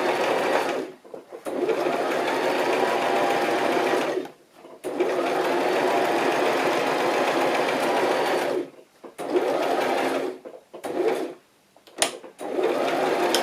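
Electric sewing machine stitching in several runs of a few seconds each, stopping briefly between them, with a few short bursts and a sharp click near the end.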